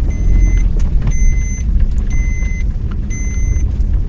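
A vehicle's electronic warning beeper sounding about once a second, each high beep lasting about half a second, over a steady low engine and road rumble.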